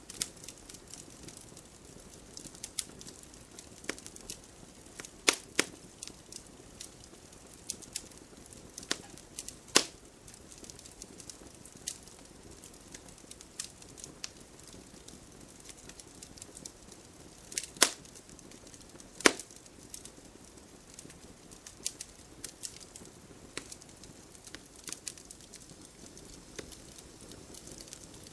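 Campfire crackling: burning wood giving irregular sharp snaps and pops over a low, steady hiss, with a few louder pops standing out, notably about five and ten seconds in and twice around eighteen to nineteen seconds.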